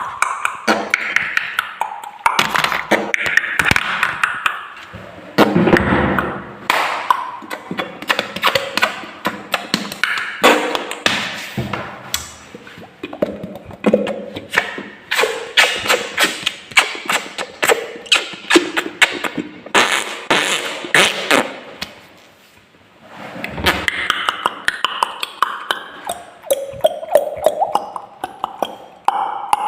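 Drinking glasses struck over and over in quick rhythmic taps with a ringing ping, played like a percussion instrument, with a brief pause about two thirds of the way through.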